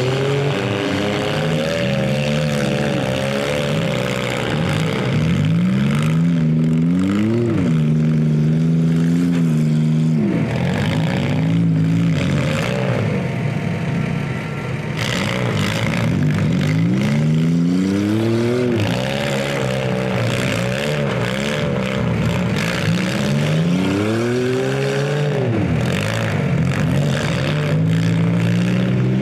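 Engines of stock compact demolition-derby cars running hard, revving up and dropping back several times.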